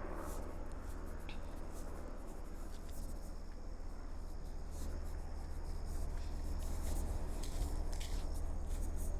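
Outdoor ambience: a steady low rumble of wind on the microphone, with scattered small rustling clicks and a faint, thin, high insect-like hum.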